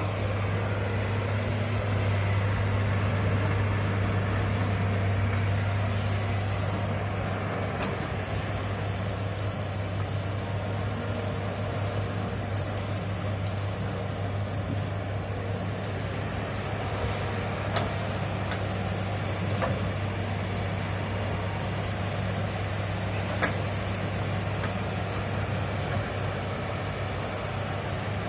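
Hitachi excavator's diesel engine running steadily under load, a constant low hum, with a few brief sharp clicks scattered through.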